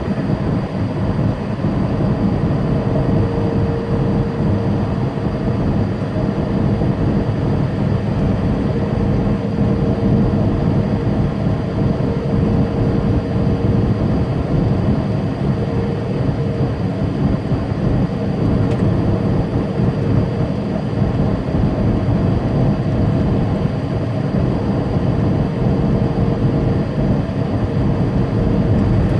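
Semi truck cruising on the interstate: a steady drone of diesel engine and road noise, with a faint steady whine running through it.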